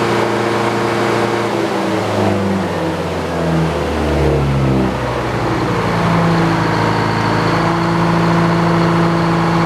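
Gasoline engine of a portable sawmill running steadily. About two seconds in, its pitch drops over a couple of seconds, then it settles and runs on at a steady lower speed.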